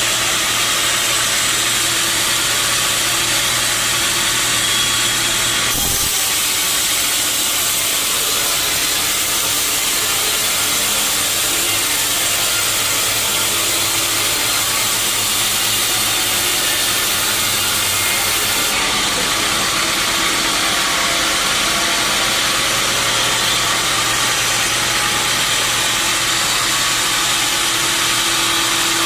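Sawmill machinery running steadily, a constant rushing hiss over a low hum. About six seconds in, a higher hiss joins and cuts off again about two-thirds of the way through.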